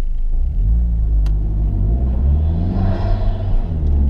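Honda Civic Type R FK2's turbocharged 2.0-litre four-cylinder heard from inside the cabin while accelerating: the engine note climbs in pitch and grows louder, then drops back near the end.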